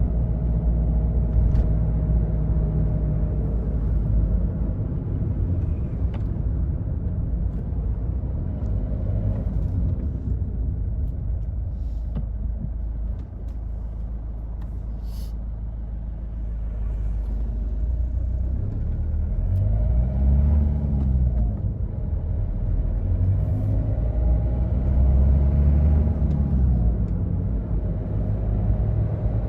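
Toyota Yaris diesel engine and road rumble while driving, heard from inside the car. The engine note rises and falls twice in the second half as the car speeds up and eases off.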